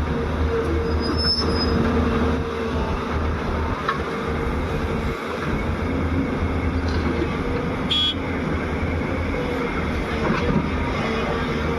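Diesel engine of a JCB 205 excavator running steadily under load, with a brief rattle about eight seconds in.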